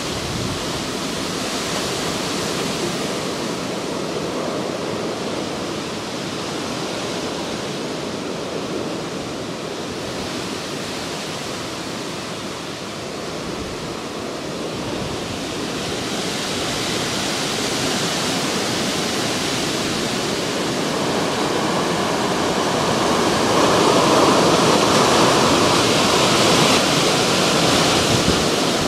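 Hurricane wind blowing hard in a steady rushing roar that builds louder about two thirds of the way through as a strong gust comes in.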